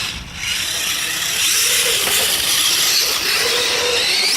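Radio-controlled mud truck's electric motor whining hard under load, its pitch wavering with the throttle, over a steady hiss.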